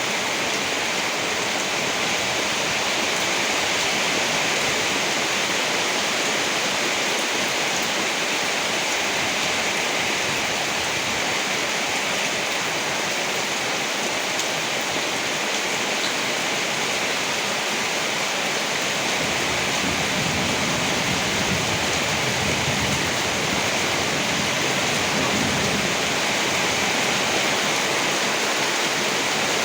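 Steady heavy rain, an even hiss with no pauses. A low rumble swells underneath for several seconds in the second half.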